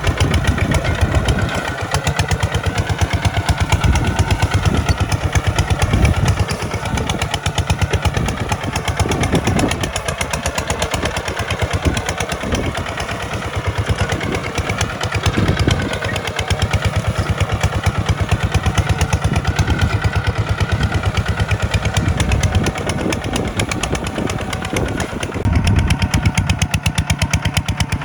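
Tractor engine running hard, a fast, even chugging of firing pulses that grows louder and eases off several times as the load changes.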